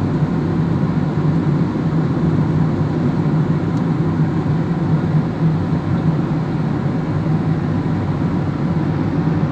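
Car driving along at steady speed: constant engine and road noise with a low hum, unchanging throughout.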